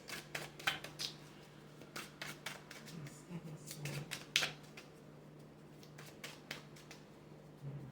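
Tarot cards being handled and set down on a table: irregular light taps and rustles, with a steady low hum underneath.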